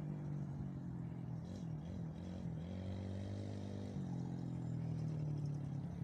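Small engine running steadily, its pitch dipping and rising a few times as the throttle changes.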